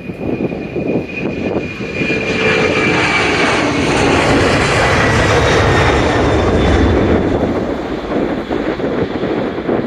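Twin-engine Boeing 767-300ER jet at takeoff thrust passing by: the engine noise swells to its loudest about halfway through and then eases, with a high fan whine that drops slightly in pitch. Wind buffets the microphone underneath.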